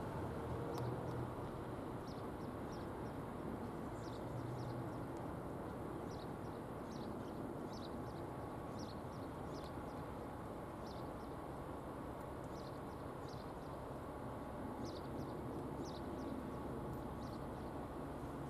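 Steady low rumble of an electric regional train running away along the line, fading only slightly, with small birds giving many short, falling chirps over it.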